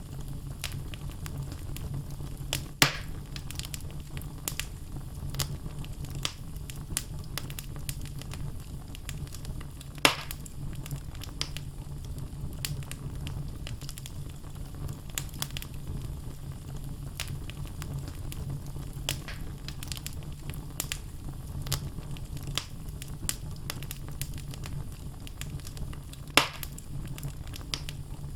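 Wood fire burning in a fireplace: logs crackling with many small snaps over a low steady rumble. Three louder pops stand out, about three seconds in, about ten seconds in, and near the end.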